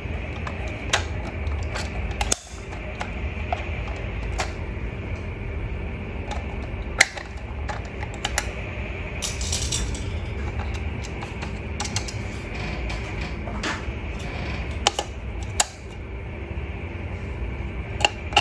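Scattered sharp plastic clicks and knocks from a toy fire truck being handled, over a steady low hum, with a short rattle about nine seconds in.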